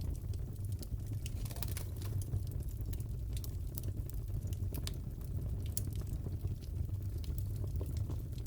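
Wood fire crackling in a fireplace: a steady low rush with scattered sharp crackles and pops throughout.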